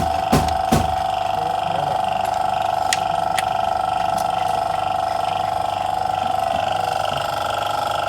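A machine running steadily with a constant mid-pitched whine, with a few sharp clicks twice near the start and twice about three seconds in.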